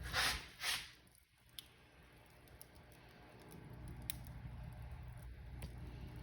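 Wood fire crackling in a fireplace. Two louder hissing crackles come in the first second, followed by a low steady rumble of flames with a few sharp, sparse pops.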